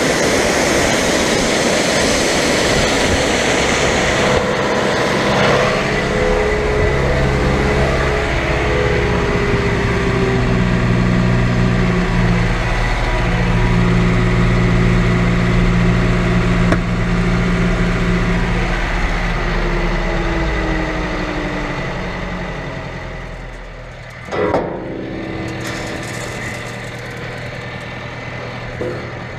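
Heavy harvest machinery running loud and steady with a droning hum. About twenty seconds in, its tones slide down and the sound drops as it slows. A sharp knock comes a few seconds later, and then it runs on more quietly at idle.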